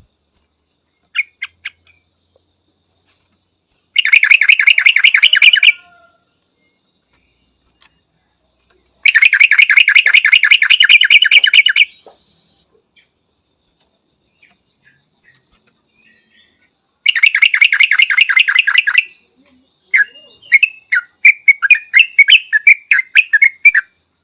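Yellow-vented bulbul calling: three spells of fast chattering notes, each lasting two to three seconds, then a run of varied short chirps near the end.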